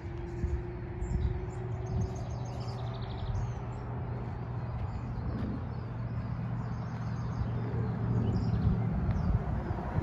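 Small birds chirping in short scattered calls over a steady low hum of a distant engine.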